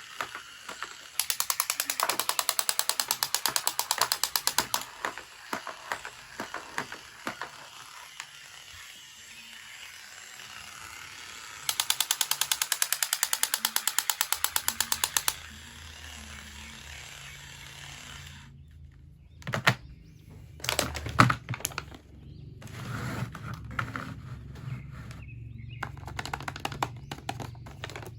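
Rapid, even ratcheting clicks in two runs of about three and a half seconds each, then scattered knocks and handling clatter in the second half.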